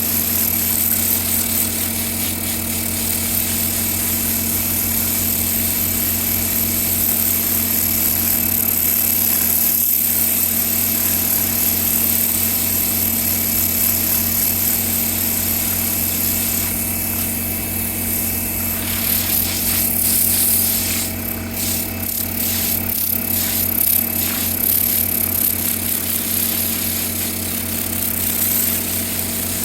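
A small electric motor running steadily with an even hum and hiss, like a cleaning power tool in use. Between about 17 and 24 seconds in, a few short scratchy bursts rise over it.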